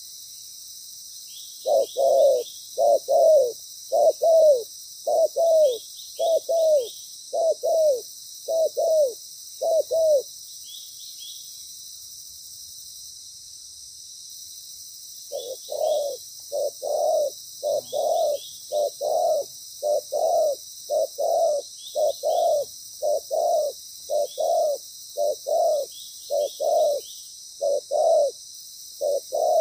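Spotted dove cooing: a long run of loud, low coos, mostly in quick pairs. It breaks off for about five seconds in the middle, then resumes. A steady high-pitched insect drone runs underneath.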